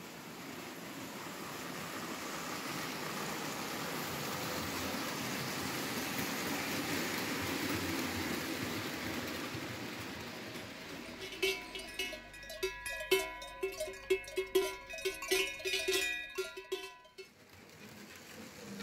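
Märklin H0 model freight train running on stamped-metal M-track: a rumble swells as it approaches, then a rapid, irregular metallic clatter with ringing tones as the wagons pass close by, stopping abruptly about a second before the end.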